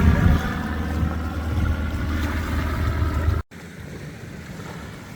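Steady engine drone with a stack of pitched tones over a deep low rumble, cut off abruptly about three and a half seconds in; after that only wind and surf.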